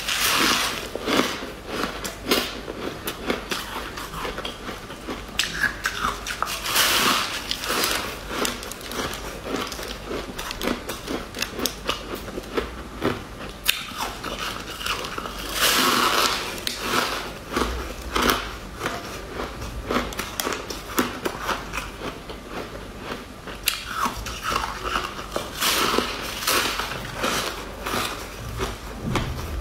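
Close-up crunching as a crumbly, frost-covered pink chunk is bitten and chewed, with dense crackly chewing throughout. Louder bites come at the start, about 7 s in, about 16 s in and about 26 s in.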